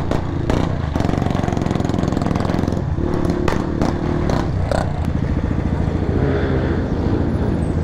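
Motorcycle engine running under way, with a few sharp pops from the exhaust about half a second, three and a half and nearly five seconds in.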